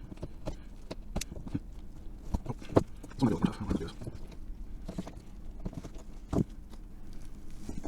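Irregular clicks and knocks as a small smoke ball's hard clay casing is cut and pried open, with two louder cracks, one near the middle and one about two-thirds through.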